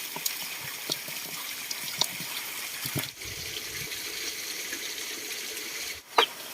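Water running steadily, as from a tap into a sink, with a few light clicks and knocks and one sharper click near the end.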